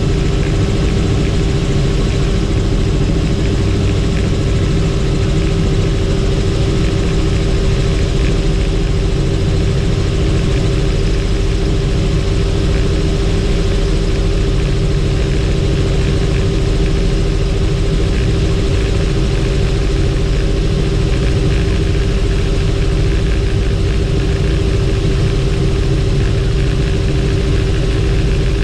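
Helicopter in flight: a loud, steady drone of the rotor and engine, with one constant hum-like tone, holding level throughout.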